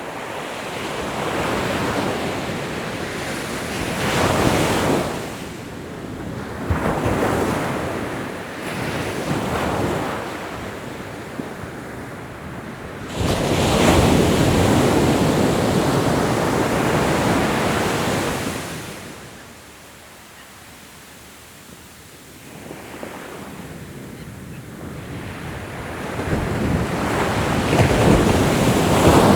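Ocean surf breaking and washing on the shore in repeated surges. A larger wave breaks suddenly about halfway through and washes for several seconds, then there is a brief lull before the surf builds again.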